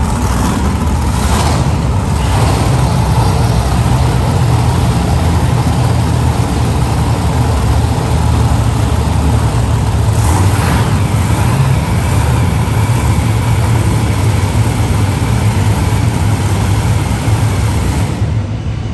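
Monster truck engine running loud and steady throughout, a heavy low engine note with noise across the whole range.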